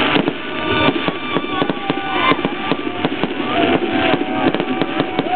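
Fireworks crackling: a dense, irregular stream of many small sharp pops from popcorn-style bursts. Thin whistling tones glide up and down in pitch through the crackle.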